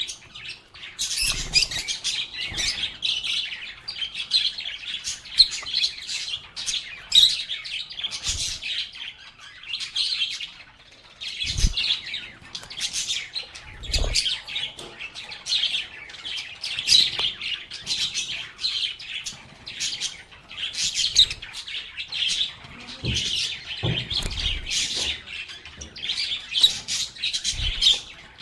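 A flock of pet lovebirds (Agapornis) chirping and chattering continuously in quick, high-pitched calls, with a few low thumps now and then.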